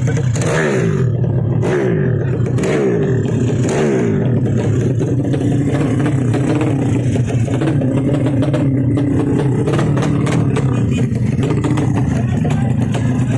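Drag-racing motorcycle engines being revved: the revs are blipped up and fall away several times in the first few seconds, then the engines run on steadily at a high idle.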